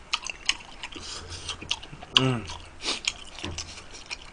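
A person chewing spicy tteokbokki rice cakes, with many quick wet mouth clicks and smacks. A short vocal sound with falling pitch comes about two seconds in.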